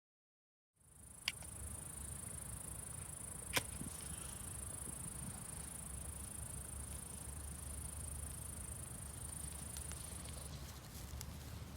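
Crickets trilling in one steady, high, unbroken band over a low rumble, with two sharp clicks, about a second in and again a couple of seconds later. The trilling stops abruptly near the end.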